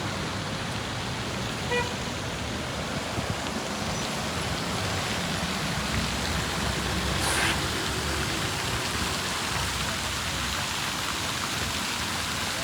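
Steady street noise of passing road traffic, with a brief hiss about seven seconds in.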